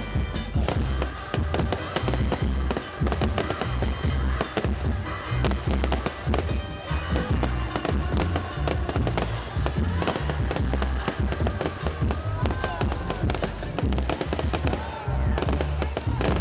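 Fireworks banging and crackling in quick, dense succession over background music.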